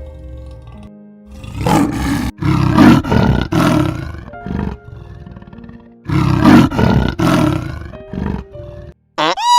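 Big cat roaring: a run of loud roars about a second and a half in and another about six seconds in, over background music. Just before the end, a short rising whistle-like glide.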